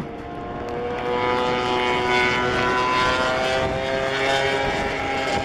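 Several MotoGP racing motorcycles passing at high revs, their overlapping engine notes swelling louder about a second in and holding.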